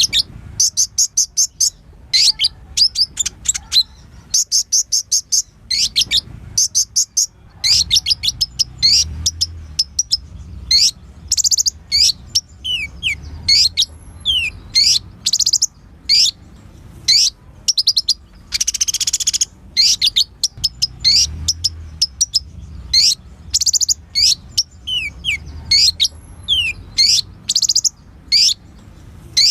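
A sunbird, the 'kolibri ninja' of Indonesian bird keepers, singing continuously in a full, varied song: fast high chattering trills broken by short whistles that slide downward.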